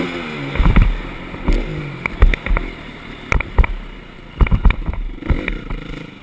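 Dirt bike engine revving up and down over and over, as when riding a motocross track, with repeated sharp knocks and thumps.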